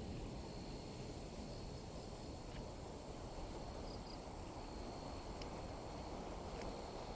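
Insects calling as one steady high-pitched tone over a constant low rumbling background noise, with a few faint clicks.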